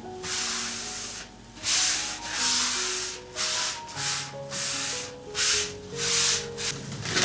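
Repeated scraping strokes, roughly one or two a second and slightly irregular, over soft background music.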